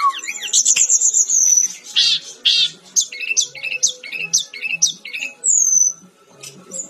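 Brown-chested jungle flycatcher (Sikatan-rimba dada-coklat) singing vigorously: a rapid run of varied high whistled notes, quick sweeps and short trills with brief gaps between phrases.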